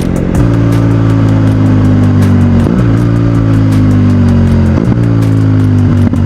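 BMW GS Adventure motorcycle's boxer-twin engine and exhaust under way, a steady note sinking slowly in pitch, broken briefly about three times as at gear changes.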